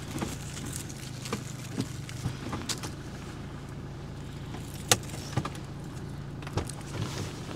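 Car engine idling steadily with a low hum, with scattered sharp clicks and cracks over it, the loudest about five seconds in.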